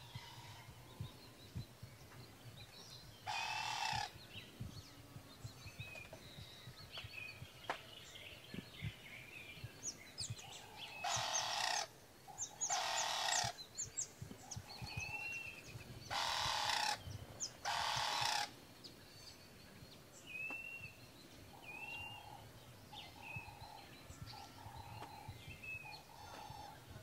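Birds calling: repeated short chirps, with loud harsh calls about a second apart in pairs, and a run of short lower notes near the end.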